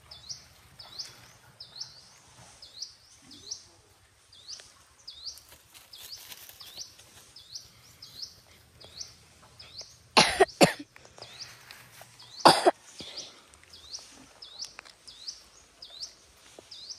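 A bird calling over and over with a short, high, falling chirp, about twice a second. A person coughs loudly twice in quick succession a little past halfway, then once more about two seconds later.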